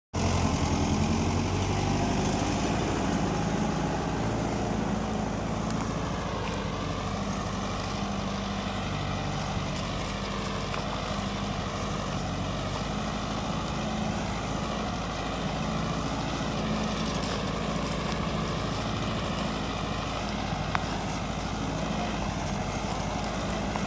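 Kubota tractor's diesel engine running steadily, a little louder in the first couple of seconds.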